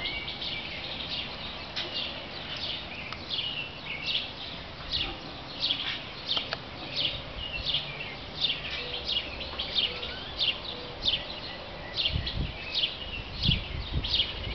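Birds chirping in the early morning: a steady run of short, high, falling chirps, about two to three a second. A few low thumps come near the end.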